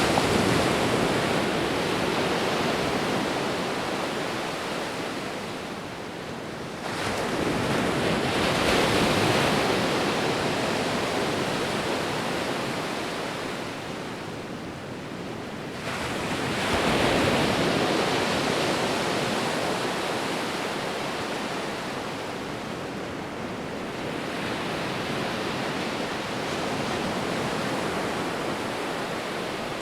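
Sea waves breaking and washing in, four surges of surf, each swelling up and fading over several seconds.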